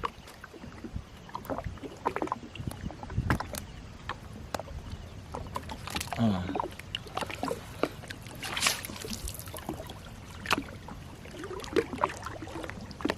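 Irregular knocks, clunks and water splashes from a small boat on the river as a gill net is hauled and checked by hand, with a longer rush of noise about nine seconds in.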